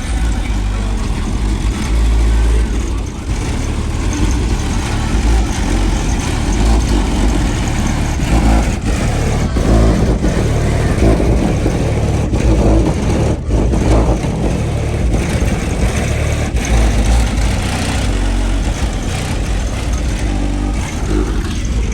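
Motor vehicle engines running with a heavy, steady low rumble and some revving.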